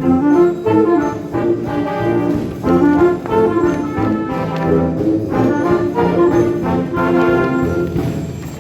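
Concert wind band playing a piece in short, accented chords, with brass to the fore.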